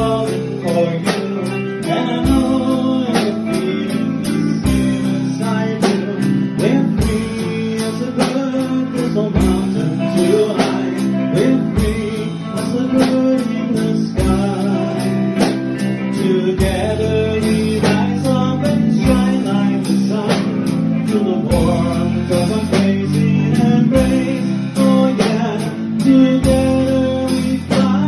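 A live rock band playing a song with guitars, a steady drum beat and a singing voice.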